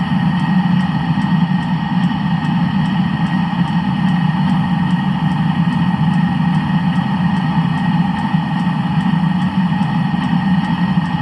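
Land Rover engine idling steadily after repair of its cylinder block.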